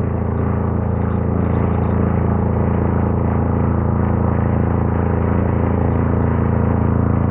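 Wen D6000 diesel generator's engine running steadily just after it has started.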